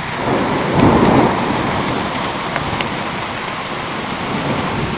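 Heavy rain pouring down in a steady hiss, with a louder swell about a second in.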